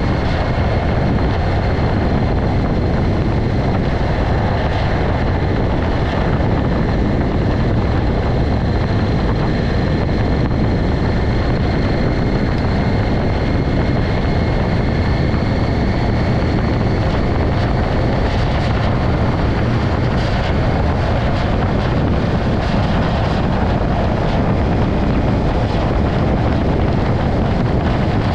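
Steady wind noise buffeting the microphone of a moving motorcycle, with the engine running underneath and a faint high whine that drifts slightly in pitch.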